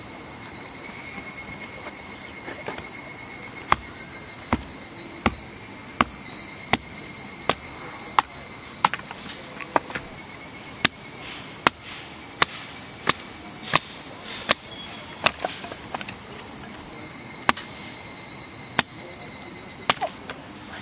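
Wood being struck over and over, sharp knocks about once every 0.7 seconds, as kindling is chopped or split with a blade. Underneath, insects shrill steadily.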